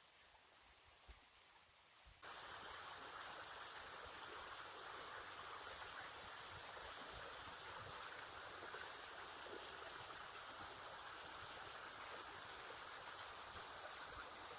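Steady rushing water that starts abruptly about two seconds in, after near quiet.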